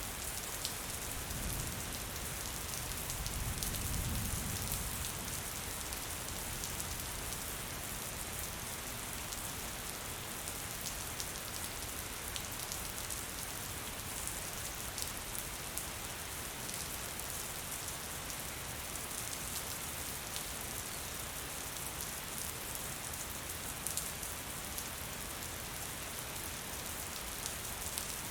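Gentle rain falling steadily, a soft even hiss with single drops ticking now and then. A brief low rumble swells and fades about two to five seconds in.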